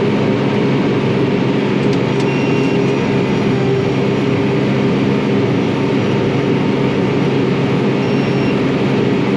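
Crop sprayer's engine running at a steady working speed, heard from inside the cab: an even, loud drone.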